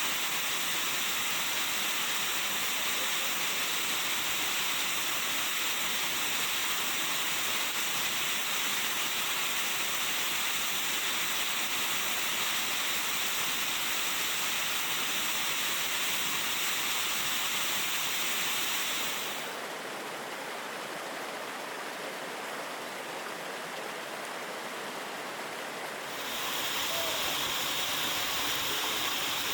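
Steady rush of a high waterfall. About two-thirds of the way in it turns quieter and duller for about six seconds, then comes back.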